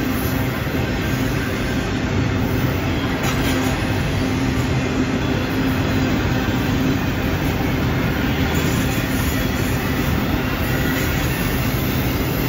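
Autorack freight cars rolling past, a steady rumble of steel wheels on the rails.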